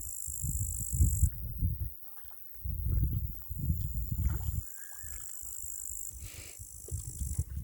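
Crickets trilling in a steady high-pitched stream that breaks off and starts again a couple of times, over irregular low rumbling.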